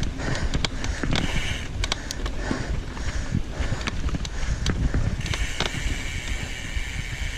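Bicycle rolling over rough ground, with many sharp rattles and knocks from the bike and wind buffeting the action camera's microphone.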